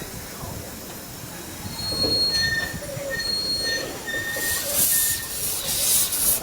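Heritage steam train rolling on rails, its wheels giving high, on-and-off flange squeals, with a loud burst of steam hiss about four and a half seconds in.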